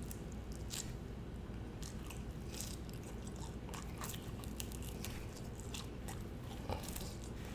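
A person chewing a mouthful of food quietly, with scattered soft mouth clicks and smacks.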